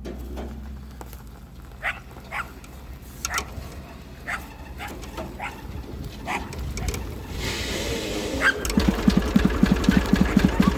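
Massey Ferguson 35's three-cylinder diesel engine being tow-started behind a truck: a low rumble while it is pulled over, then, near the end, the engine catches and runs with a rapid, regular knock.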